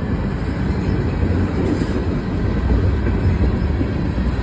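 Freight cars of a CSX mixed freight train rolling past, a steady loud noise of steel wheels on rail.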